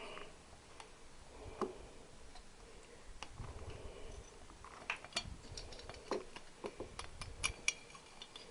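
Scattered light clicks and taps from a Triumph Bonneville T120R's cylinder head and push-rod tubes being worked loose by hand. The clicks come more thickly in the last few seconds, ending in a quick run of sharp ticks.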